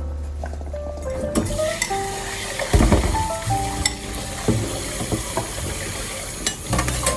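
Food sizzling in a hot pan, a steady hiss that comes in about a second in, with a few sharp knocks of utensils, the loudest about three seconds in. A simple music melody plays throughout.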